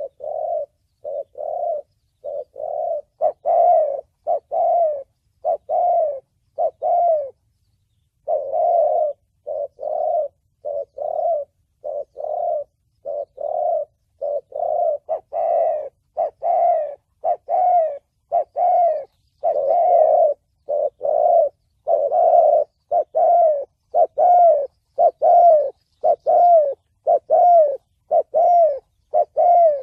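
Spotted dove cooing in the 'thổ bầu' voice that keepers use as a lure call. It is a close, near-unbroken run of short, low coos, about two a second, with one brief pause about seven seconds in.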